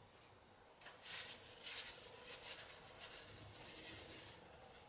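Green abrasive scouring pad scrubbing the end of a copper pipe in quick, short, hissy strokes, about two or three a second, starting about a second in. The pad is cleaning old solder off the pipe to bright metal before it is soldered.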